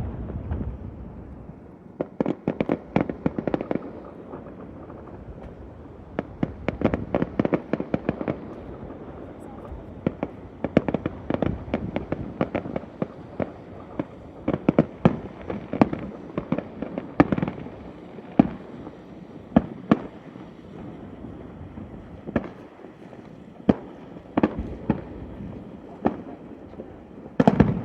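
Fireworks going off: a fading rumble from a burst, then repeated clusters of rapid crackling pops, and a loud boom near the end.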